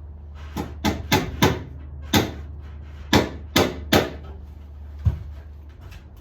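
A series of about nine sharp knocks, irregularly spaced and bunched in the first four seconds, over a steady low hum.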